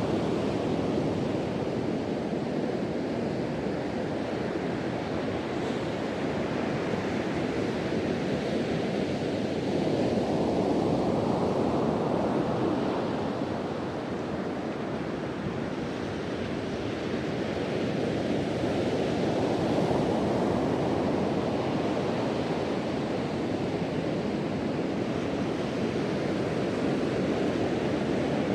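Ocean waves breaking and washing on a beach in a continuous rush, swelling and easing slowly every several seconds, with wind buffeting the microphone.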